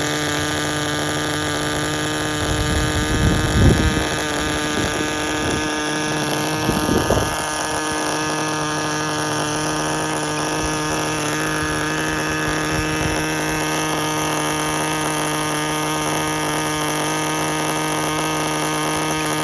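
Small nitro engine of a Tamiya TGS-R RC car idling steadily with an even hum. Short louder bursts of low noise come about three seconds and seven seconds in.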